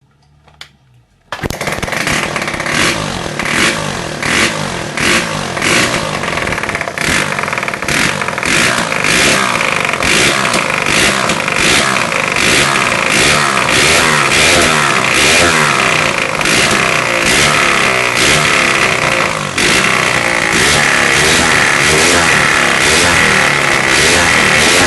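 Motorcycle engine running loud and close, cutting in suddenly about a second in and carrying on without a break.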